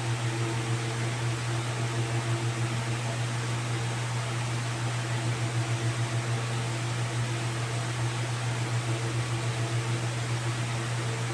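A steady mechanical hum with a couple of faint steady tones above it and an even hiss over everything, unchanging throughout.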